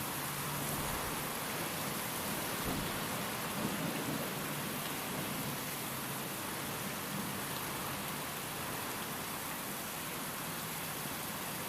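Steady rain and wind, with a low rumble of thunder a few seconds in.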